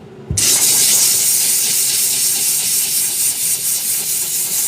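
A click about a third of a second in, then a loud, steady hiss of a pressurised jet that keeps going.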